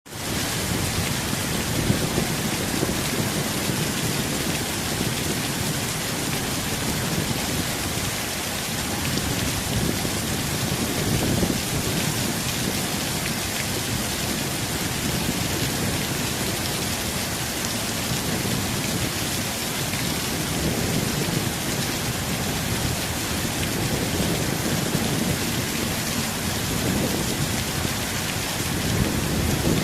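Heavy tropical rain falling steadily, fading in at the start, with low rumbling swells rising and falling now and then beneath it.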